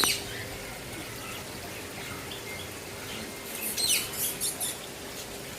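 Mixed small cage birds (parrots, lovebirds and small finches) chirping in an aviary, with scattered short chirps and a cluster of shrill calls about four seconds in.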